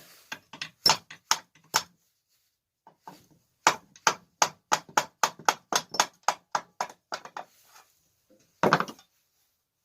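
Hammer tapping on a small engine's parts: a few scattered taps, then a quick even run of about three taps a second, and one heavier knock near the end. The engine is stiff to turn, scraping on a broken piston ring.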